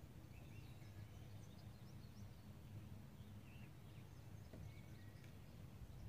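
Near silence: a steady faint low rumble of outdoor ambience, with a few faint, high bird chirps scattered through the first half and again near the end.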